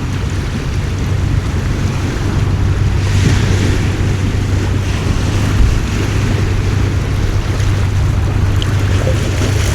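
Heavy rain falling on a harbour, with wind buffeting the microphone, over the steady low hum of a fishing boat's engine.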